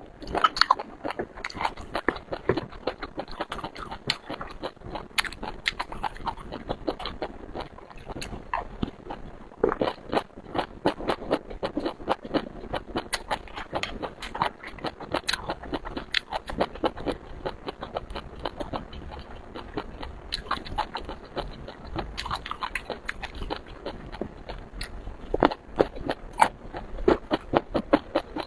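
Close-miked eating of seafood: wet chewing and biting with many quick, irregular smacking clicks.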